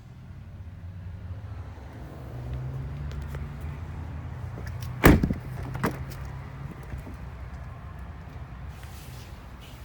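A pickup truck's door shutting with a loud thump about halfway through, followed by a smaller knock, over a low steady rumble.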